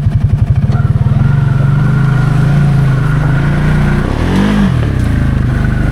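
Can-Am Outlander 700 XMR ATV engine picking up from slow, even idle pulses to steady throttle about a second in, with a steady high whine above it. Around four seconds in the revs rise and drop back briefly.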